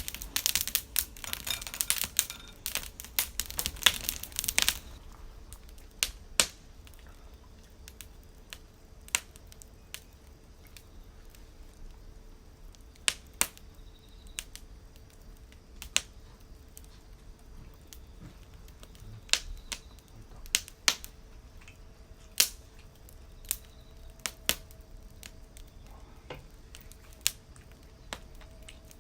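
Wood campfire crackling: a dense run of crackles for about the first five seconds, then sparse single sharp pops every second or two.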